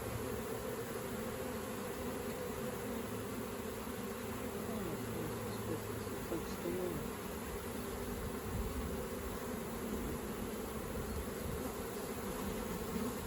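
Steady buzzing of a mass of honeybees in flight, a colony being shaken out of a swarm trap and transferred into a hive.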